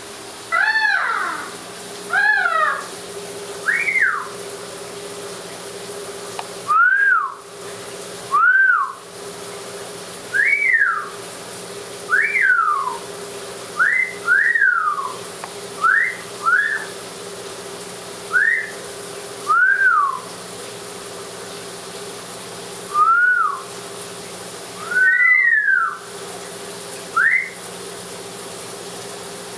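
Amazon parrot whistling a string of short notes, each rising then falling, one every second or two, over the steady hiss of running shower water.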